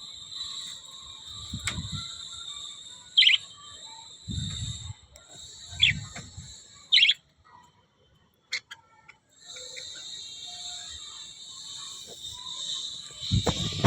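Small pet parrots chattering in a steady high twitter, with several loud, sharp calls cutting through between about three and seven seconds in, and a few low thuds. The chatter drops out briefly a little past the middle, then resumes.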